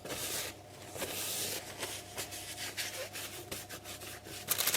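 Rustling and rubbing noises with many small clicks scattered through.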